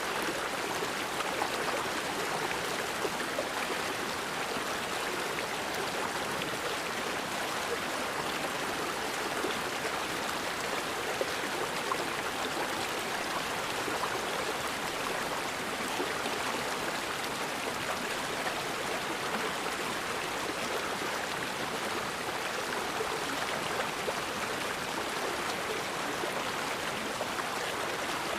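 Forest river flowing, a steady rushing of water with small gurgles and splashes.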